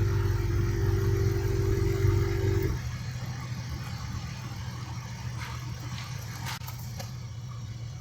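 Onboard 12-volt air compressor running with a steady whine, then cutting off abruptly about three seconds in, typical of its pressure switch shutting it off once the air hose is up to pressure. A low steady engine hum carries on afterwards, with a few light clicks near the end.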